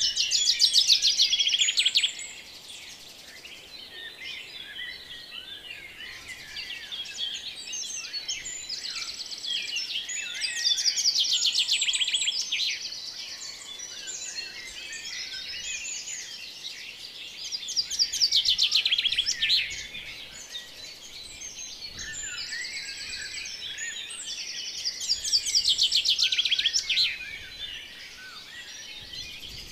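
Birds chirping and singing in a dense chorus, with louder bursts of rapid trills every seven or eight seconds.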